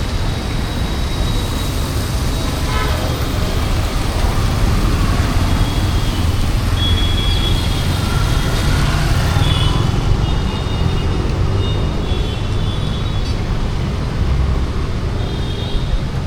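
Busy city street traffic on a wet road: engines running and a steady hiss of tyres, with several short, high-pitched horn toots scattered through.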